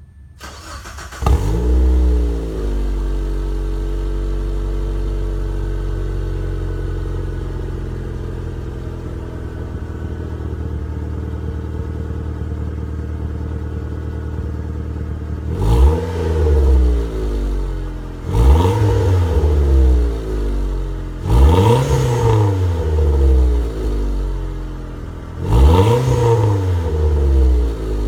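Turbocharged 2.0-litre four-cylinder engine of a Mazdaspeed Protege on a 2.5-inch straight-pipe exhaust with only a Greddy Evo muffler, no cats or resonators. It fires up about a second in with a flare, idles while the revs slowly ease down, then is revved in four quick blips, each rising and falling, from about halfway.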